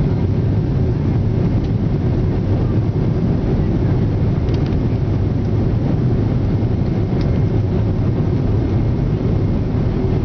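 Boeing 767's twin turbofan engines running with a steady low rumble that neither rises nor falls.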